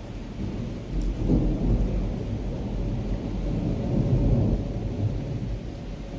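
Thunder rumbling over rain: the deep roll builds about a second in, swells again around four seconds, then fades off.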